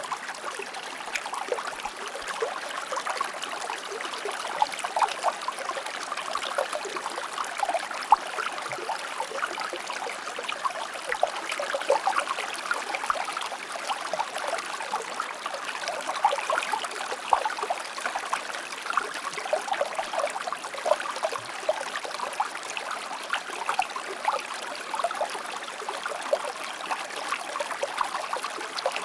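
Shallow river or stream flowing over rocks: a steady babble and trickle of water with many small splashes.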